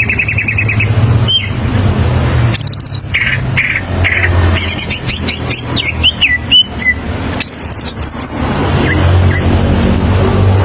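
Greater green leafbird (cucak ijo) singing a varied song of quick trills, short chirps and down-slurred whistles, over a steady low hum.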